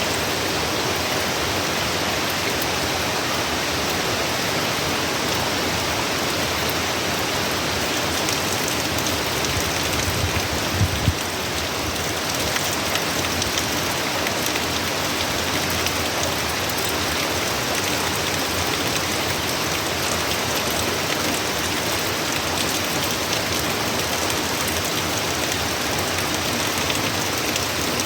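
Heavy hurricane rain falling steadily, a dense even hiss of rain on surfaces. A brief low rumble or thump comes about ten seconds in.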